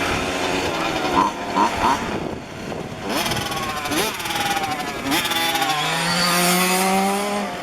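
Several 1:5-scale petrol RC cars' small two-stroke engines revving up and easing off as they lap, their pitches rising and falling and overlapping.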